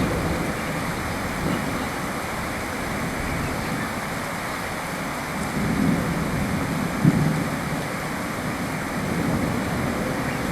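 Steady rain falling, with low rumbling swells near the start and just past the middle, and one short sharp knock about seven seconds in.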